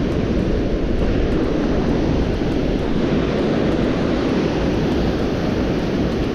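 Strong gusting wind buffeting the microphone: a loud, steady rumbling noise with no distinct events.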